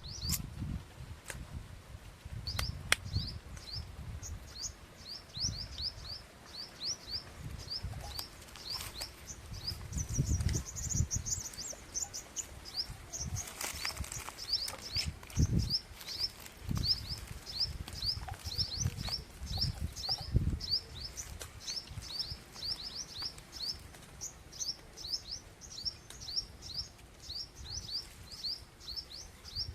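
A group of small birds, likely the quail, chirping constantly in short, rapid, high notes, with irregular dull low thumps and rustles underneath.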